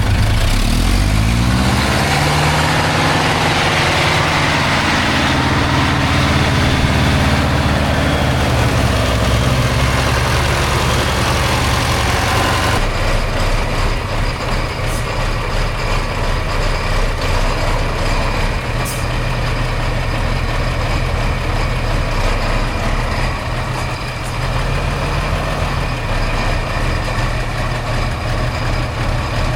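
Heavy off-road truck's diesel engine revving up sharply and then running hard at high revs, loud, for about twelve seconds; the sound then changes suddenly to a lower, steadier engine running near idle.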